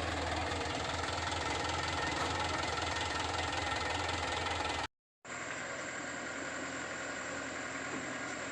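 Komatsu PC75UU excavator's diesel engine running steadily. About five seconds in the sound cuts out for a moment, then comes back as the same steady drone with less low rumble.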